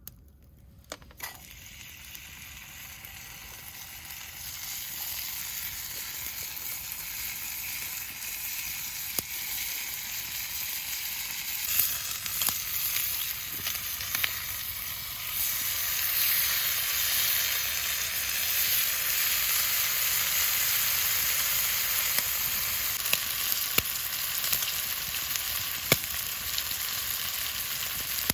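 Food frying in a hot pan, a steady sizzle that swells over the first few seconds and then holds, with scattered small pops.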